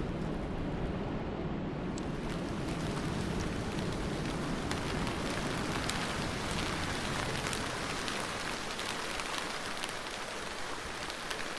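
Steady rainstorm without thunder: an even hiss of rainfall, with sharp single drops ticking on a surface. A low rumble underneath fades away over the first few seconds.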